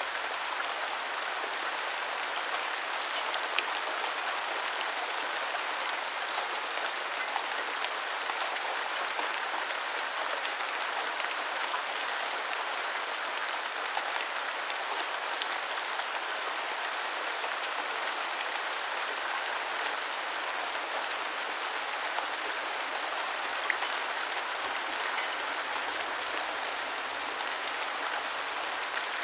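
Steady rain falling, an even hiss with many small drops ticking through it and now and then a sharper drop.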